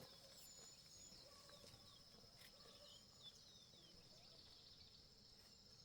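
Near silence: faint outdoor ambience with a steady high whine and scattered soft bird chirps.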